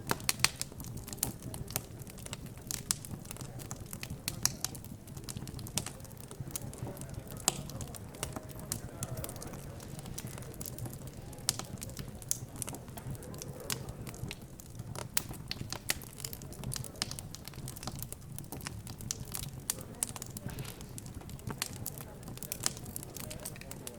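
Fireplace fire crackling, with irregular sharp pops and snaps throughout, over a steady low hum and a faint murmur of background chatter.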